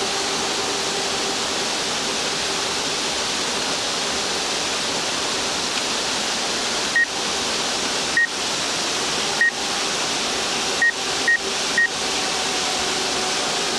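Steady rush of a waterfall under the even hum of a DJI Mavic Air quadcopter's propellers in flight. Six short, high electronic beeps come in the second half, three spread out and then three in quick succession.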